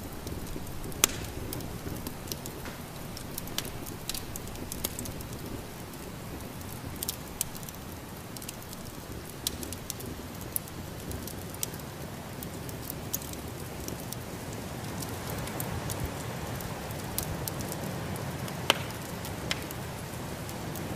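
Wood fire crackling in a fireplace, with sharp pops scattered irregularly, the loudest about a second in and near the end, over a steady low rush of snowstorm wind.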